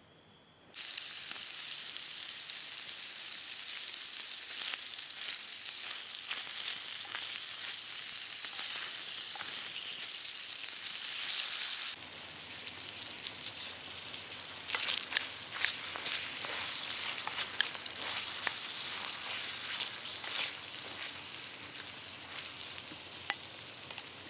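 Sausage slices frying in a pan over a campfire: a loud, steady sizzle starts suddenly about a second in, with many small pops and crackles of spitting fat through it.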